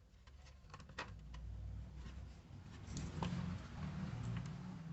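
A few scattered light clicks and taps, like small objects being handled, over a low steady rumble.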